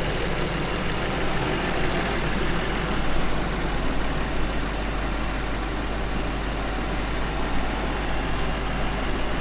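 BMW 750i's twin-turbo V8 running at a steady idle just after starting up, its first run after the crash repairs. A low, even hum under broad engine noise.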